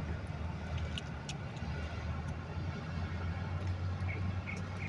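Steady low rumble, like distant road traffic, with a few faint clicks about a second in. From about four seconds in, a run of short high notes, roughly two or three a second.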